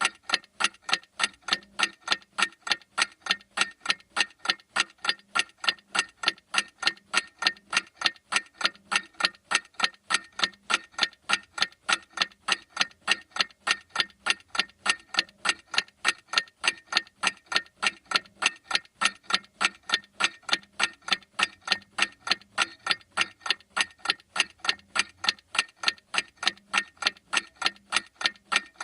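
Clock ticking steadily: sharp, even ticks at a constant rate, several a second.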